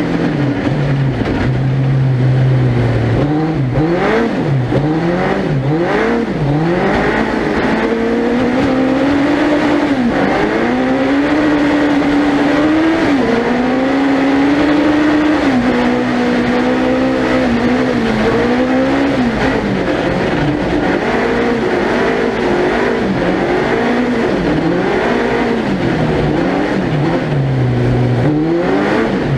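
Suzuki Hayabusa 1300cc inline-four engine in an ice-racing prototype car, revving up and down as it accelerates, shifts and lifts off around the circuit. It holds a steady lower note just after the start and again near the end, and a sustained higher pitch through the middle.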